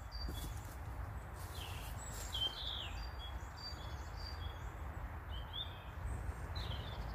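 Small birds chirping again and again in short high calls, some sliding down in pitch, over a steady low rumble of outdoor background noise.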